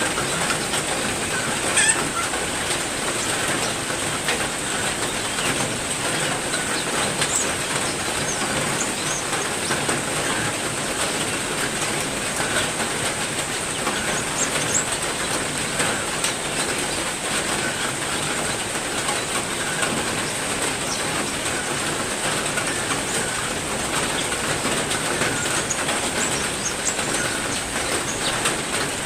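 Steady heavy rain falling, with scattered short chirps from small caged songbirds over it.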